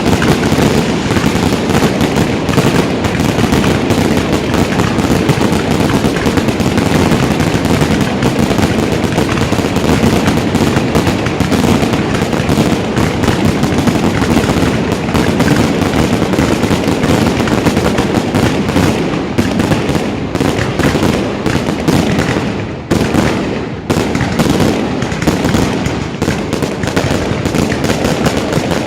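Aerial fireworks display going off in a dense, continuous barrage of rapid bangs and crackles, easing briefly about 23 seconds in before picking up again.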